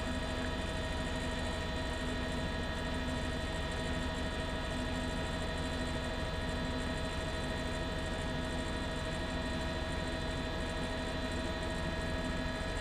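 Steady drone of a news helicopter's engine and rotor heard from inside the cabin: an even hum with several constant tones over a low rumble.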